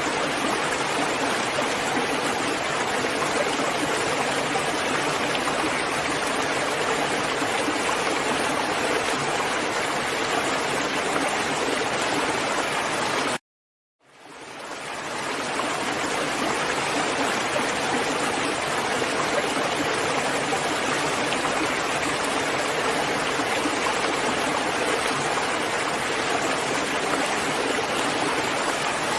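Steady, dense rain noise with no distinct drops. A little past halfway it cuts off suddenly to silence for about half a second, then fades back in over a second or two, like the seam of a looped recording.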